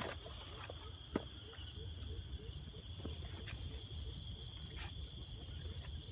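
Insects trilling: a steady, fast-pulsing high trill with no break. Over it come a few scattered clicks and, for the first few seconds, a run of soft low short notes about five a second.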